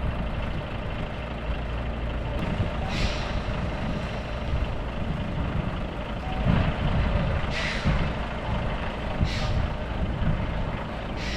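Heavy truck engine running steadily at low revs, with four short bursts of hissing air.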